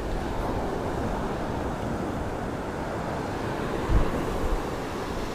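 Ocean surf washing on the beach, with wind buffeting the microphone; one stronger buffet about four seconds in.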